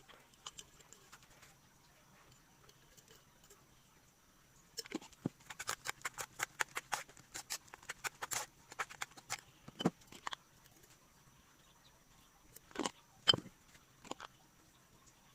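Food-preparation handling sounds: a quick, irregular run of light taps and clicks lasting several seconds, then a few separate louder knocks near the end.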